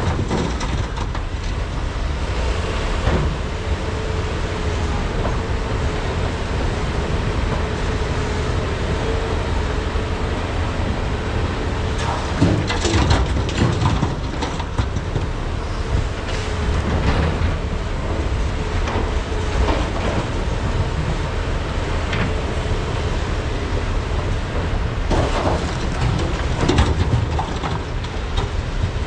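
Komatsu PC395 and SANY SY485H hydraulic excavators working, with a steady diesel rumble throughout and a steady whine for about the first half. Bursts of metallic clanking come about halfway through and again near the end.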